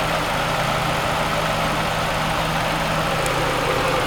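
1991 Honda Civic Si's stock D16A6 1.6-litre four-cylinder engine idling steadily.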